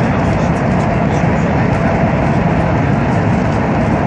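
TCDD high-speed train running, a steady, unbroken train noise that holds level throughout.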